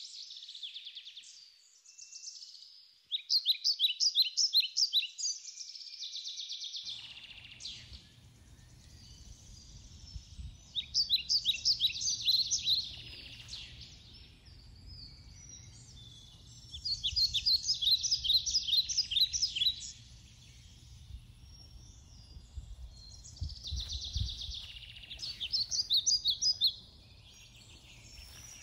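A songbird singing the same song over and over: a rapid run of high chirping notes lasting two to three seconds, repeated about every six or seven seconds. A low rumble runs underneath from about seven seconds in.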